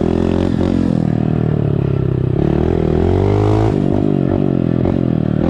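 Honda dirt bike engine revving up and down while being ridden, its pitch rising and falling with the throttle, through an exhaust with no silencer insert.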